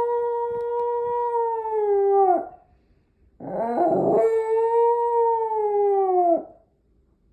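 Schnauzer howling: two long, steady howls, each dropping in pitch as it ends, with a short pause between them.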